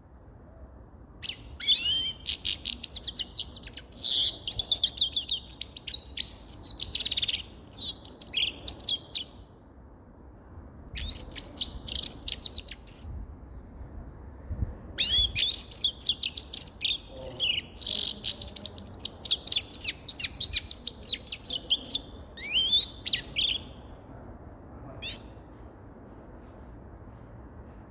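Grey-headed goldfinch singing: fast twittering phrases in three long bouts with short pauses between them, and a brief single call near the end.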